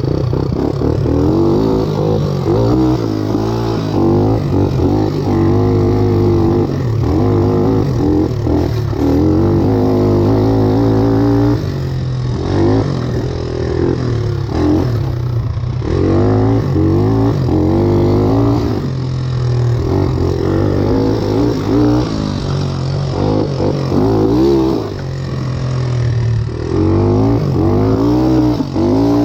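Satoh S650G tractor engine running, its pitch rising and falling over and over as engine speed changes.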